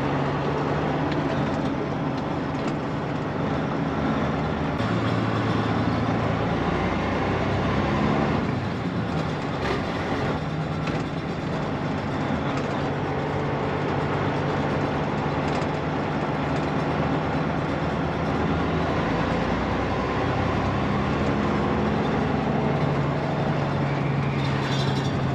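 Freightliner Columbia semi truck's diesel engine and road noise heard from inside the cab while driving, a steady low drone whose pitch steps down and climbs back up several times.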